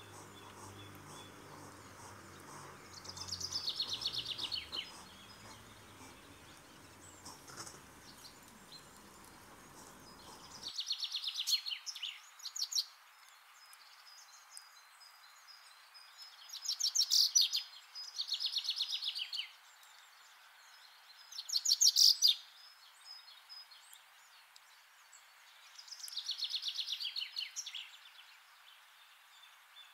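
Birds singing short, high-pitched, rapidly pulsed trills, about six of them spaced a few seconds apart, over faint steady background noise.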